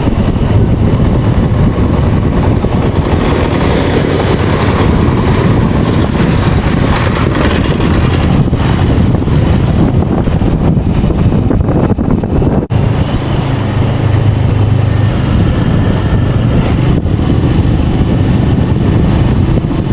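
Motorcycle being ridden on the road: a loud, steady rush of wind noise over the microphone with the engine running underneath it.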